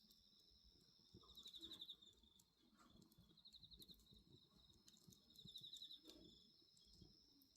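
Faint insect chorus: a steady high chirring with three pulsing cricket-like trills about two seconds apart. Under it are scattered small crackles and pops from a wood bonfire.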